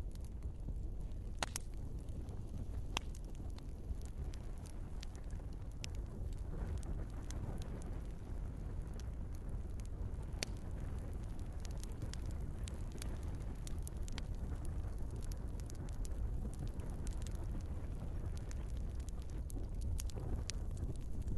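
Wood fire burning in a fireplace: a steady low rumble of the flames with irregular sharp crackles and pops from the logs, a few louder snaps among them.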